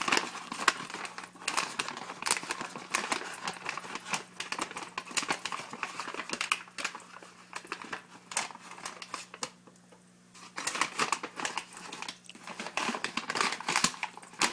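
Paper microwave-popcorn bag crinkling and rustling as the buttery kernels are scooped out of it into a pan, with many irregular small clicks and scrapes. It goes briefly quiet about ten seconds in, and a faint steady hum runs underneath.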